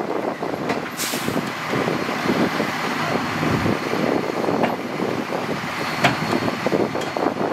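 Diesel dump truck running, with a brief hiss of air about a second in.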